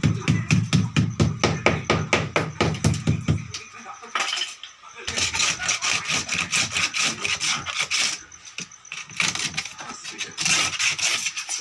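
Rhythmic back-and-forth scraping strokes of a hand tool, about four to five a second. They break off briefly about four seconds in, then resume sounding higher and brighter.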